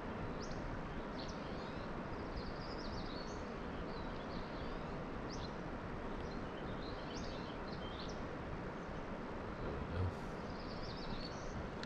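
Small birds chirping and twittering repeatedly over a steady hiss of open-air background noise, with one soft low bump about ten seconds in.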